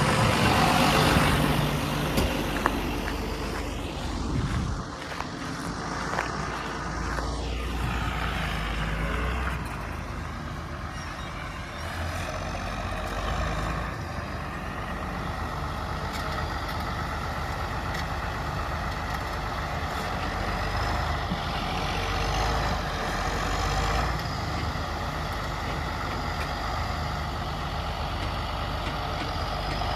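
Diesel farm tractor engine running, revving up and easing off several times as it works.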